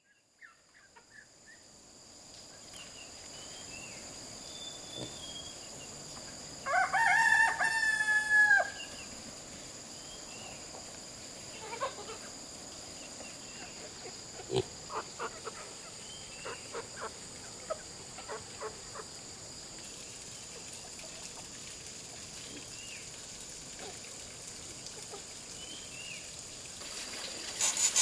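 A rooster crows once, a single drawn-out crow about seven seconds in, with scattered short clucks and chirps afterwards over a steady high-pitched drone. About a second before the end, a rhythmic sawing of wood begins.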